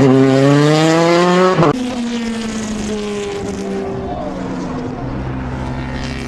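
Car engine revving hard, its pitch climbing steadily for about a second and a half, then dropping abruptly, followed by lower, steadier engine tones.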